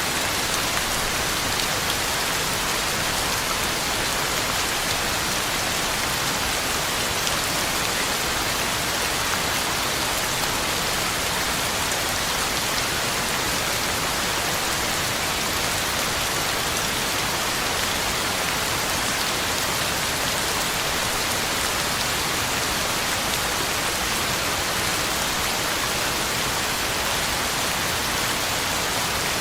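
Steady heavy rain falling, a dense even hiss of drops on the ground and leaves.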